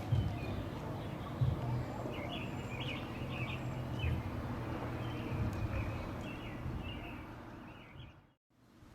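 Small birds chirping over a steady low rumble, with a couple of low thumps in the first two seconds. The sound fades and cuts out near the end.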